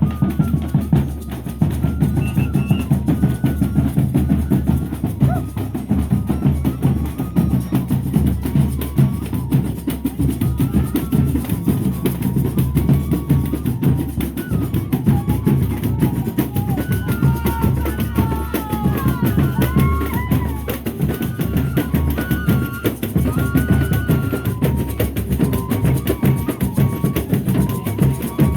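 Folia de Reis troupe playing: dense, continuous drumming with snare and bass drum, and a faint melody wavering above it.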